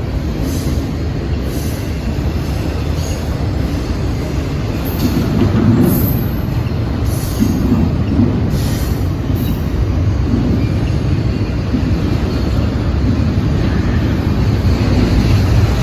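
Freight train rolling past with a steady rumble of wheels on rail, and short high-pitched wheel squeals now and then.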